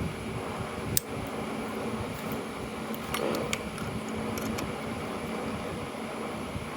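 Steady fan-like background hum, broken by a sharp click about a second in and a few lighter clicks and a short rattle between three and four and a half seconds in: small metal parts and tools being handled while a Delco starter is taken apart.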